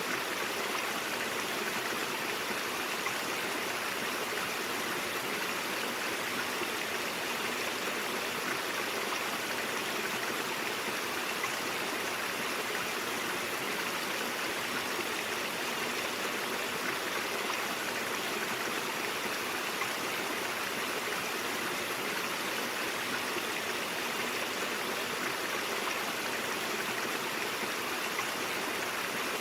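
Brook water flowing steadily, an even, unchanging rush and babble.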